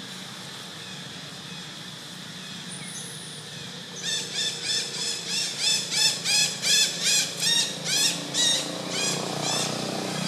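A rapid series of short, high, arching animal calls, about three a second, starting about four seconds in and fading away near the end.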